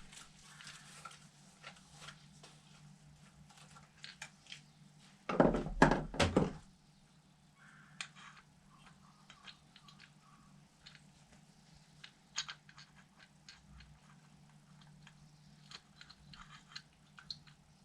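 Scattered light clicks and taps of small carburetor parts and hand tools being handled, with a louder burst of knocking and handling noise about five and a half seconds in.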